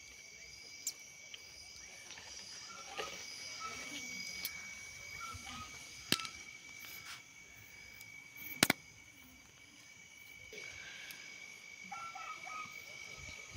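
Crickets chirring steadily, with a few sharp isolated pops and crackles from green corn ears roasting on hot embers; the loudest pop comes about two thirds of the way in.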